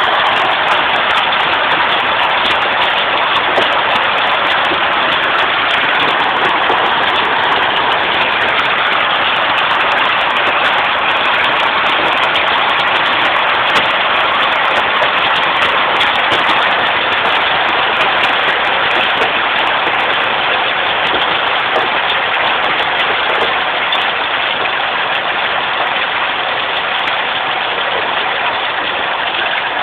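Heavy rain and hail coming down hard, a dense steady hiss of drops and hailstones striking surfaces, easing slightly near the end.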